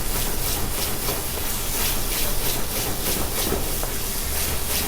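Tomato-and-spice masala sizzling in a pan over high flame with beaten yogurt just added, a steady hiss with fine crackling.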